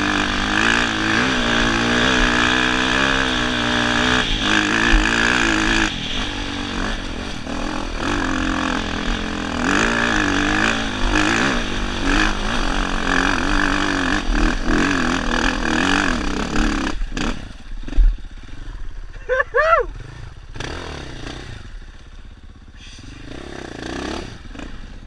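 Dirt bike engine being ridden on a trail, its pitch rising and falling with the throttle, then dropping away about seventeen seconds in. A sharp knock follows, then a few brief rising-and-falling pitched sounds.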